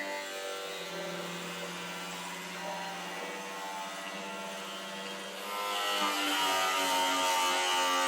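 Electric power tool running steadily while cutting through car-body sheet metal, a droning whine that turns louder and higher-pitched about five and a half seconds in.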